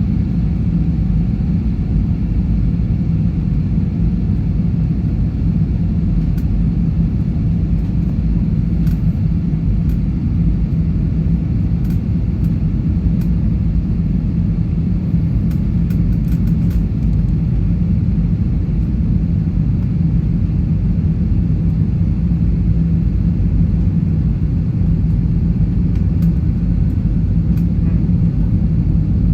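Airliner cabin noise in flight: a loud, steady rumble of engines and airflow heard from inside the passenger cabin, with a constant low hum.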